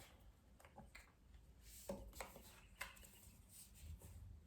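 Near silence with a few faint, short taps and slides of tarot cards being drawn and laid down.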